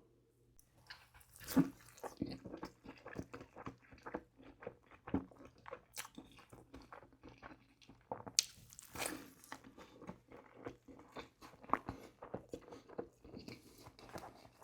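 Close-miked chewing and crunching of McDonald's fast food: quick, wet mouth clicks and crackles, with a loud crunching bite about a second and a half in and another sharp crunch around eight to nine seconds in.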